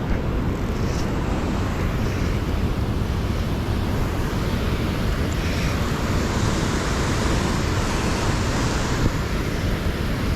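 Steady rushing noise, heaviest in the low end, typical of wind buffeting the microphone.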